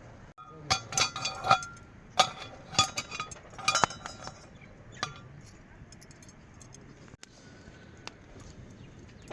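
A quick run of sharp, ringing clinks of hard objects knocked together, about a dozen over three seconds, then one more a little later, over a steady background hiss.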